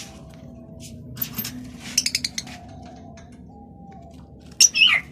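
Small cage birds chirping: a quick run of short high chirps about two seconds in, then a loud call sliding down in pitch near the end.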